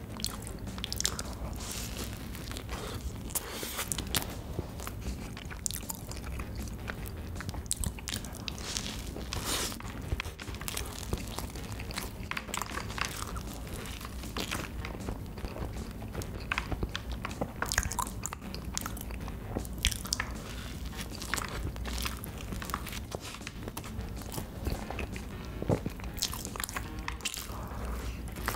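Close-miked eating: repeated bites and crunchy chewing, many short sharp crunches and clicks throughout.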